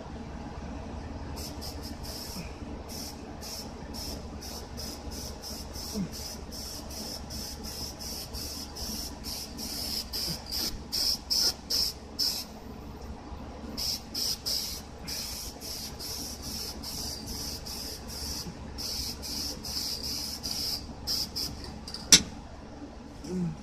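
Aerosol can of black spray paint sprayed in many short hissing bursts, a few a second, with brief pauses. A single sharp click sounds near the end.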